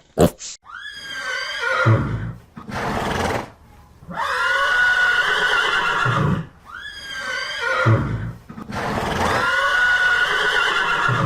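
Horse neighing: a run of long whinnies, one after another, each wavering and falling in pitch.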